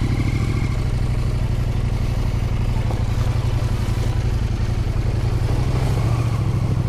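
Husqvarna Norden 901 parallel-twin engine running steadily under the rider at a fairly even low pitch on an off-road trail.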